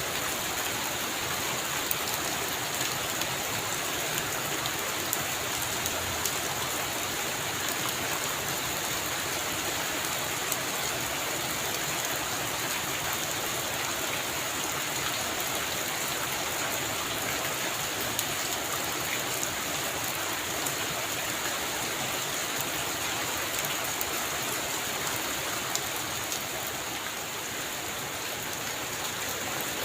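Heavy rain drumming on a roof: a steady hiss with many scattered sharp drop ticks.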